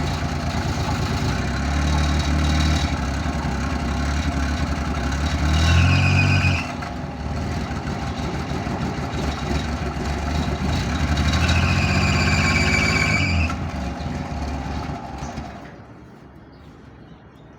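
A cold Suzuki Mehran engine running rough while the accelerator is pumped, revving up twice with a high-pitched whine on each rev, then dying away near the end as the car struggles on a hard cold start.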